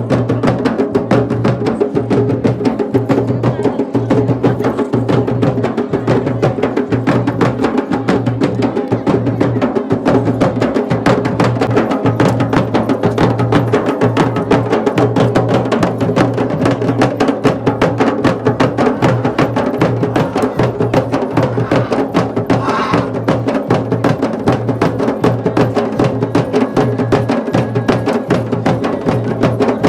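Traditional Garhwali festival drumming, fast and continuous strokes without a break, over a steady drone.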